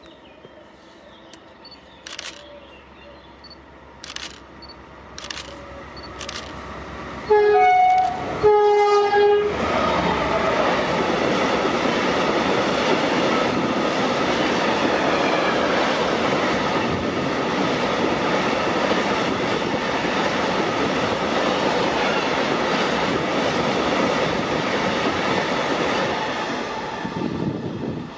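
A train sounds two short blasts on its horn as it approaches, then runs past at speed with a loud, steady rush of wheels on rail that fades away near the end. A few faint ticks come before the horn.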